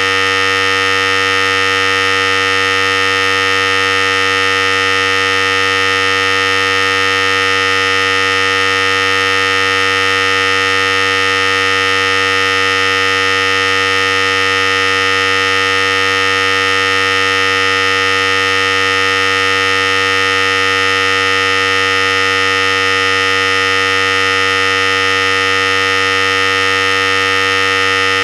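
Philips Series 5000 electric hair clippers running steadily, an unchanging motor hum.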